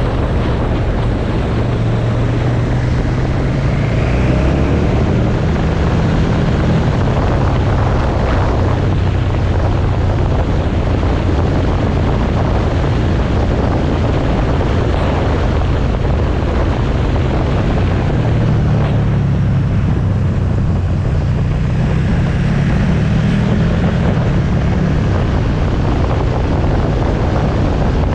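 Motorcycle engine running under way, its note rising and falling with the throttle, under heavy wind noise on the microphone.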